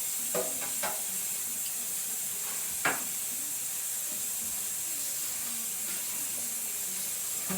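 Steady, high kitchen hiss from the cooking, which comes on and cuts off abruptly, with a few short knocks about half a second, one second and three seconds in.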